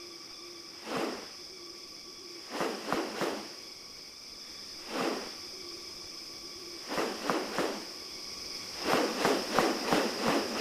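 A steady high insect drone, with short rustling bursts over it: one, then a quick three, one more, another three, then a faster run of about three a second near the end.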